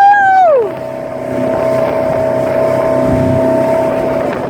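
A motorboat's engine running at a steady speed, with an even whine under wind. About the first second is taken up by a held, pitched call that falls away.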